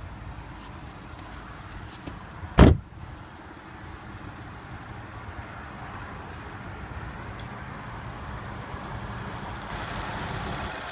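Audi Q7's 3.0-litre supercharged V6 idling steadily, with one loud thump about two and a half seconds in as the hood is released. Near the end the engine sound turns louder and brighter.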